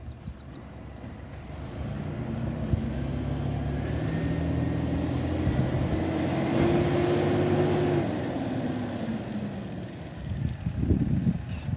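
Garbage truck's diesel engine revving up and holding at higher revs, then dropping back about eight seconds in.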